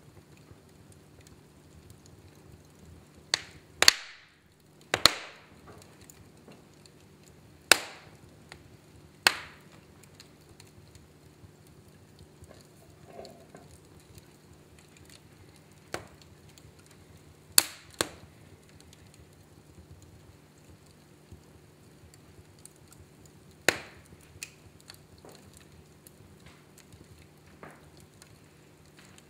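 Wood fire in a fireplace burning, with sharp irregular pops and cracks from the burning logs, several coming in quick pairs, over a faint steady low hum.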